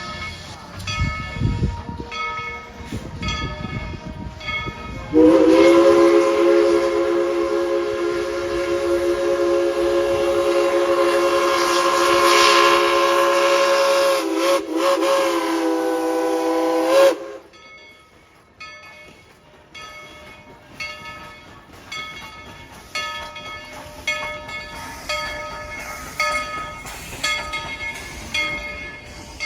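Steam locomotive #190's chime whistle blows one long chord of several notes for about twelve seconds, wavering briefly near the end. The locomotive's bell rings steadily before and after the whistle.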